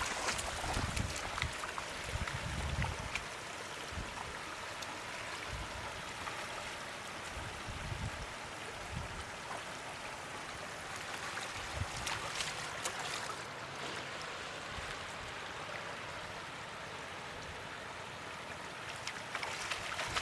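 Floodwater flowing and trickling steadily.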